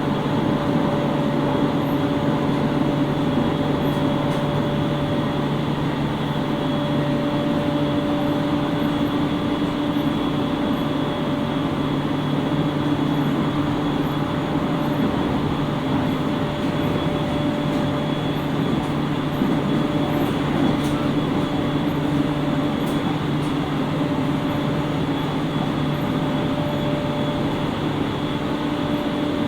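Interior running noise of a JR East 701 series 5500 electric multiple unit travelling at a steady speed: an even rumble of wheels on rail, with a low hum and a higher whine from the drive, both held at one pitch.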